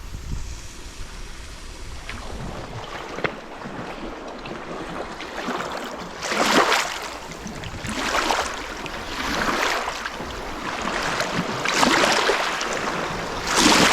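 Small waves washing onto a shore, each surge of surf swelling and fading every second or two, louder in the second half, with a couple of faint clicks early on.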